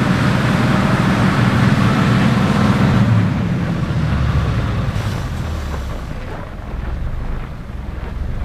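Road vehicle noise: an engine's low rumble with tyre and road hiss, loud for the first three seconds or so, then fading to a quieter low rumble.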